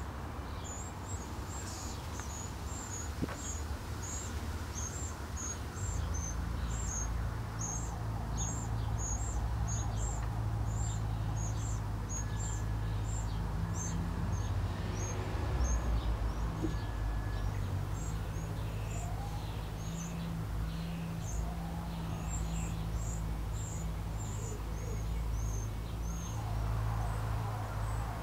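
A small bird chirping over and over, short high notes about two a second, that stops shortly before the end. A steady low hum sets in about six seconds in.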